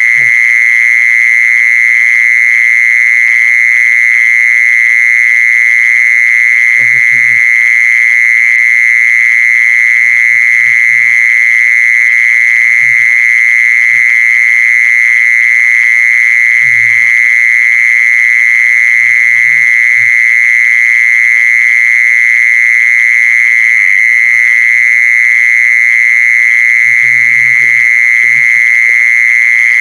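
Insect calling, a loud, steady, high-pitched buzz with no breaks.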